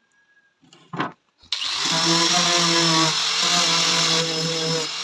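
A brief knock about a second in, then an electric power tool switches on suddenly and runs steadily at speed, with a short wavering in its pitch about three seconds in.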